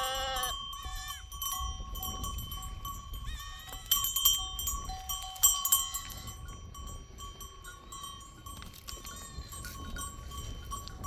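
Flock of sheep and goats bleating, one loud wavering bleat at the start and fainter ones later, over the steady ringing of livestock bells. A couple of sharp clanks come near the middle.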